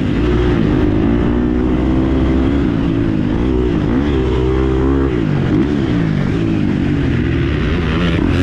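Motocross bike engine running and revving, its pitch rising and falling again and again over a steady low rumble.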